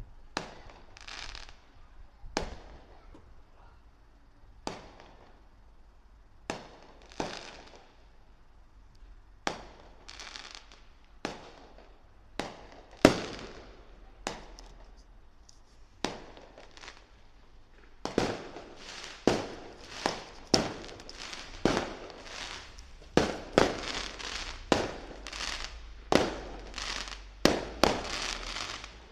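Fireworks going off: sharp bangs, each with a short crackling or echoing tail, one every second or two at first. About two-thirds of the way through they come much faster, several a second.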